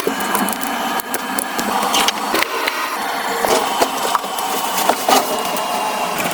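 Dense crackling and scraping with many sharp clicks scattered through it.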